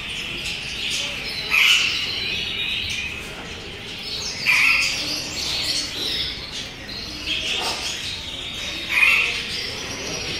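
Birds squawking: three loud, short, harsh calls a few seconds apart, with weaker calls between, over a steady high twittering of many birds.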